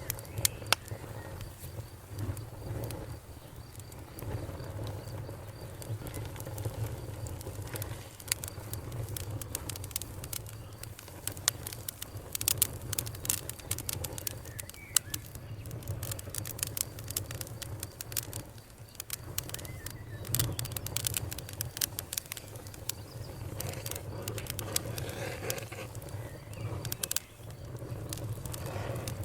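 Wood fire crackling: a steady low rumble of flames under irregular sharp pops and snaps, thickest in clusters about halfway through.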